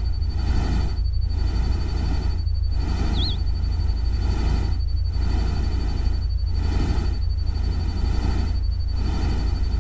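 Steady rushing noise of a synthetic rain-and-water ambience with a deep rumble underneath. It dips and swells about once a second, with a thin steady high tone over it and one brief chirp about three seconds in.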